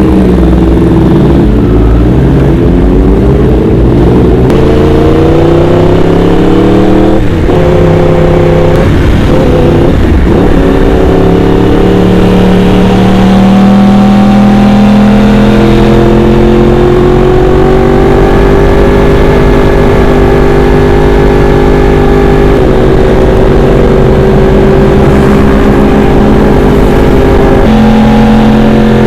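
Motorcycle engine pulling under load while riding, its pitch rising as it revs and then dropping at gear changes about seven and ten seconds in, and again near the end, with a steadier cruising stretch between. Wind noise and engine rumble run underneath.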